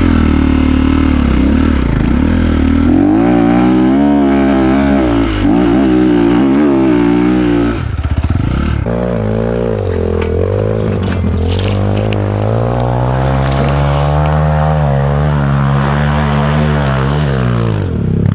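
Enduro dirt bike engine under way, its pitch rising and falling repeatedly as the throttle is worked over rough trail. The revs drop briefly about eight seconds in, then climb and hold before falling away near the end.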